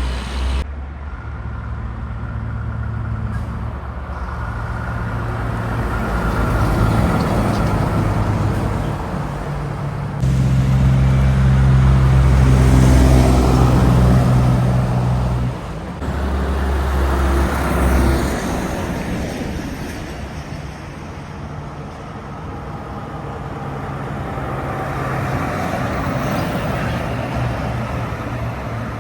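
Heavy trucks passing one after another, their engines running low and loud over tyre and road noise. The sound swells and fades with each pass, and the loudest pass comes about ten to fifteen seconds in.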